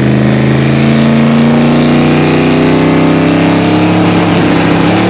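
Twin-turbocharged Corvette V8 under load, its pitch climbing slowly and steadily as the car accelerates.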